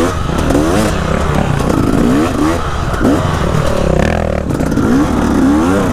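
Dirt bike engine revving up and falling back again and again, about once a second, as the throttle is worked on a trail ride, over a steady low rumble.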